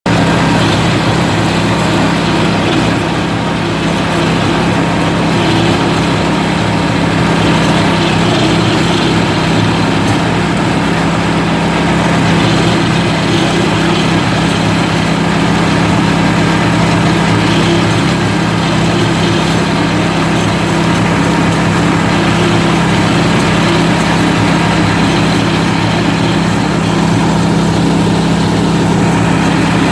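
Engine of a coconut husk-peeling machine running steadily at a constant speed, a loud, even hum with no change in pitch.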